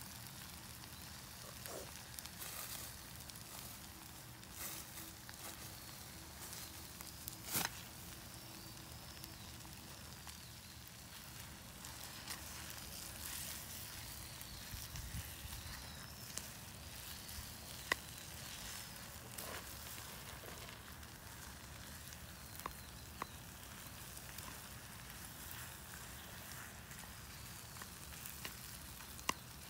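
Wood campfire crackling: a steady soft hiss with scattered pops and snaps, a louder snap about eight seconds in and another sharp one near eighteen seconds.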